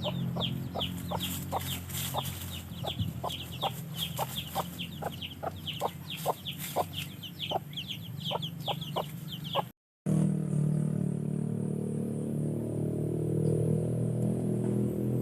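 Chickens: a rapid run of short, high, falling peeps, about three a second, mixed with lower clucks over a steady low hum. About ten seconds in the sound cuts off and is replaced by a steady low drone.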